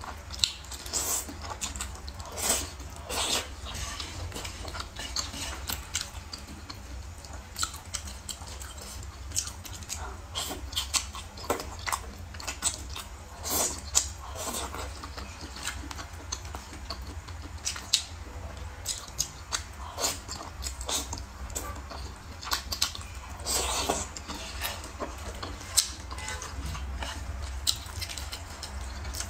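A person chewing food close to the microphone, with irregular short wet clicks and smacks of the mouth.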